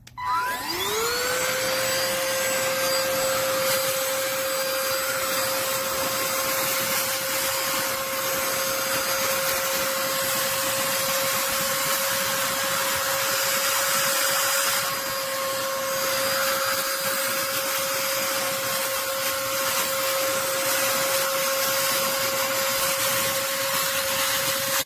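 Bissell AeroSlim cordless handheld vacuum switched on, its motor whine rising quickly to a steady high pitch over a rushing airflow noise. It runs steadily, then cuts off abruptly at the end.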